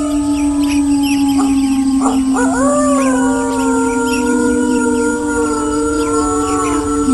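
A chorus of wolves howling, several long howls overlapping at different pitches; about two seconds in, another howl rises and then slowly falls.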